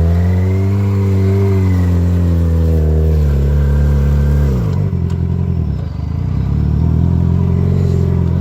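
Sportbike engine held at high revs with the bike stuck in snow, the revs wavering slightly, then dropping sharply about four and a half seconds in to a lower, uneven running.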